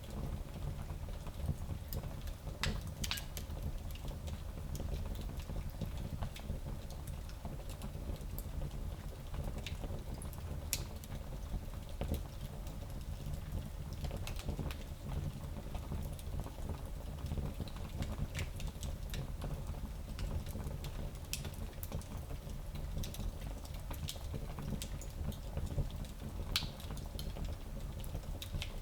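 Fire crackling in a small fireplace: sharp pops and snaps at uneven intervals over a steady low rumble of the flames.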